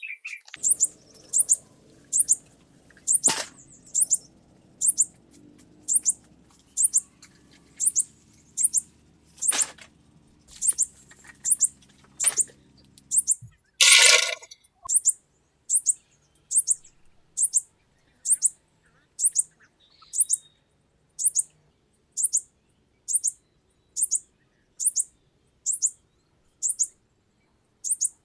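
A small bird chirping: one short, high chirp repeated steadily, a little more than once a second. About halfway through comes a single louder call that falls in pitch.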